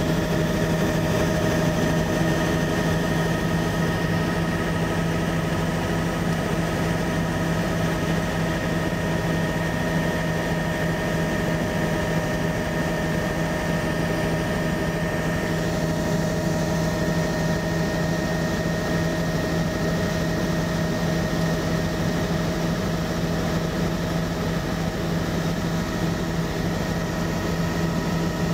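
Aircraft in flight: a loud, steady engine drone with a strong low hum and several steady higher whining tones above it.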